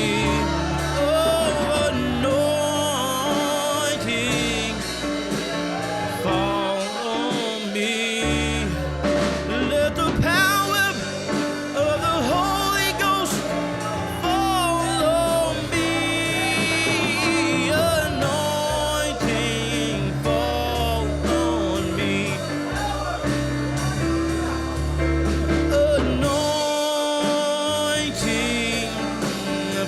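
Gospel music: a singer's voice with vibrato over instrumental accompaniment with a steady bass line.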